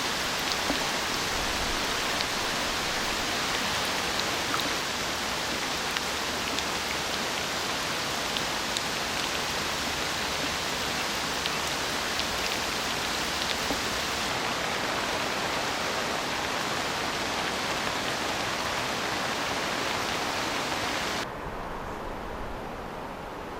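Steady rain falling, with scattered small drop ticks. Near the end the sound drops suddenly to a quieter, duller hiss.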